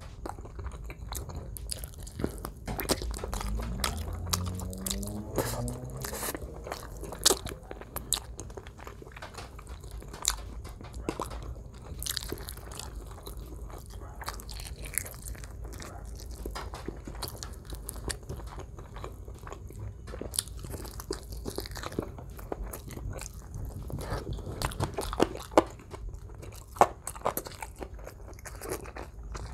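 Close-up mouth sounds of a person eating roasted chicken asado with his hands: irregular wet chewing, biting and crunching with many small clicks and smacks, and a few louder bites.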